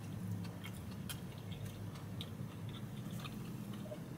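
A person chewing a mouthful of burger slider with a soft bun, plant-based patty, lettuce and pickles: faint, scattered wet mouth clicks over a low steady hum.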